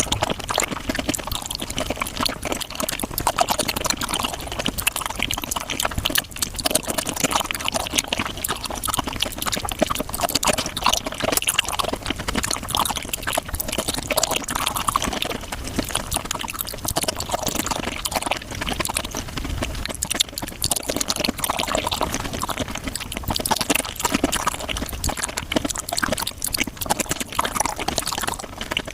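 Close-miked wet eating sounds of raw shrimp being chewed and slurped, sped up to five times normal speed into a dense, rapid stream of wet clicks and smacks.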